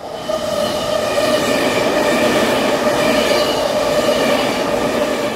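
A train running on rails, with a steady rumble and a steady high whine over it. The sound fades in at the start and fades out near the end.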